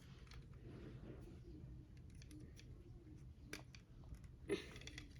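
Faint, scattered clicks and taps of small plastic construction-kit pieces being handled and fitted together, with one slightly louder click near the end.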